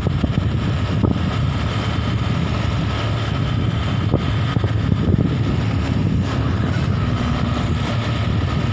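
Steady low rumble of a vehicle in motion, heard from on board, with wind noise on the microphone and a few light knocks.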